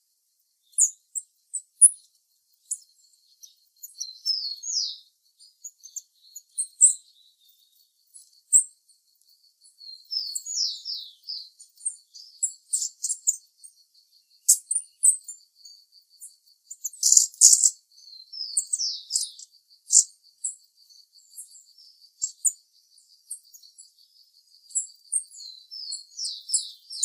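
Brassy-breasted tanager (saíra-lagarta) calling: high, thin chirps and short falling notes in scattered bouts, over a steady high pulsing trill.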